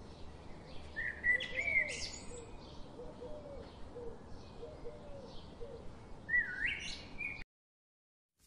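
Birds chirping, with two louder bursts of calls about a second in and near the end over fainter repeated chirps; the sound cuts out abruptly about a second before the end.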